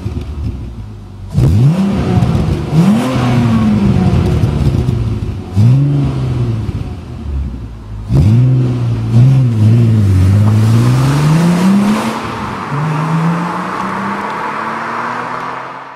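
Audi TT's 3.2-litre V6 revving through a Milltek exhaust: about six quick sharp blips of the throttle, each rising and falling back, then a slower, steady climb in revs near the end.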